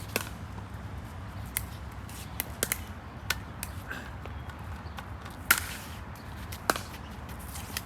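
Pickleball play: sharp pops of paddles striking the hard plastic ball at irregular intervals, the loudest about five and a half seconds in, over a low steady hum.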